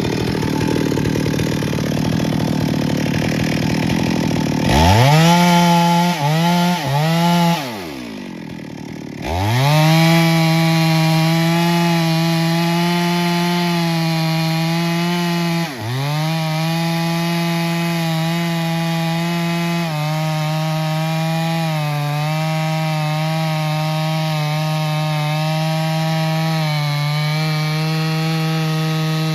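Gasoline chainsaw cutting into a large tree trunk. A noisy rush comes first; about five seconds in the saw is revved up three times in quick blips, falls back, then runs at full throttle through the cut. The high engine note holds steady, dipping briefly and shifting slightly as the chain loads in the wood.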